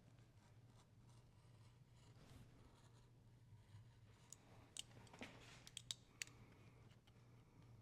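Near silence: low room hum with a handful of faint small clicks about halfway through.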